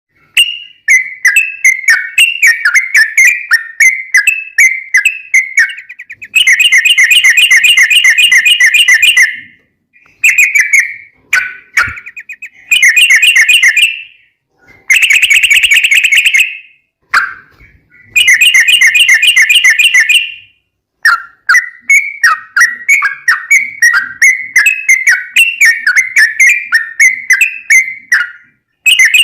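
Yellow-vented bulbul (trucukan) singing loudly. Choppy, bubbly phrases alternate with long rapid trills ('ropel') of two to three seconds each, with brief pauses between phrases.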